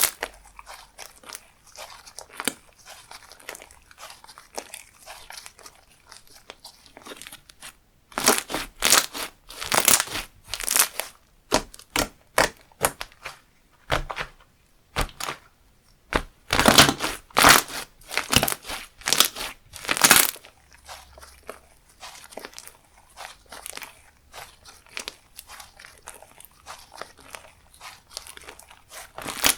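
Slime being squished, stretched and folded by hand, with sticky crackles and small clicking pops. The crackling comes in two louder, denser spells, about eight and sixteen seconds in, and is fainter between them.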